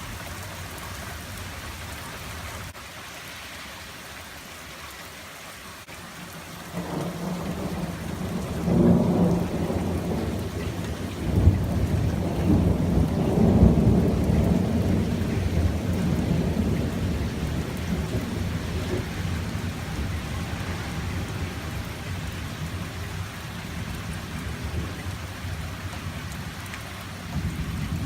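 Steady rain falling, with a long roll of thunder that starts about seven seconds in, peaks with sharper claps a couple of times, then rumbles away slowly.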